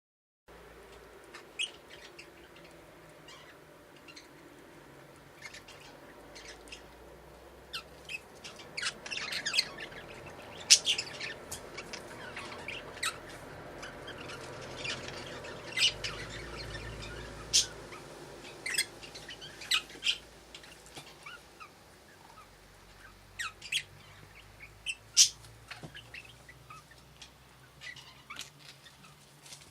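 A pair of budgerigars chirping and chattering in short, sharp calls, busiest through the middle stretch.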